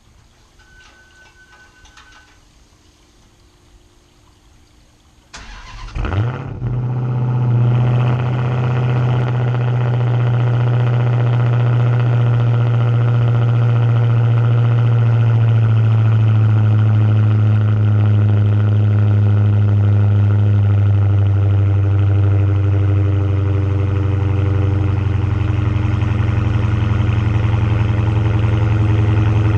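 Dodge Hellcat's supercharged 6.2-litre HEMI V8 starting through its exhaust: a brief crank about five seconds in, then it catches and settles into a loud, steady idle.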